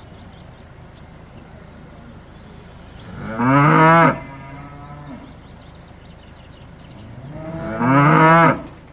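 Cow mooing twice, each low call about a second long, over a steady low background noise.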